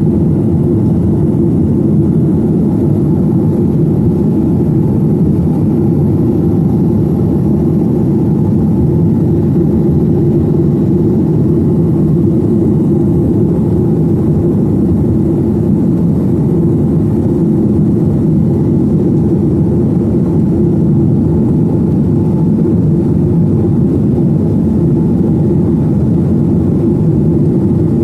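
Steady, loud drone of a Boeing 737-900ER's CFM56 jet engines and airflow heard inside the passenger cabin, low and even throughout.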